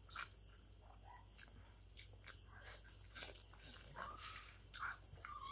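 Faint close-up eating sounds: chewing and lip smacks, with scattered small clicks from fingers picking at rice and fish.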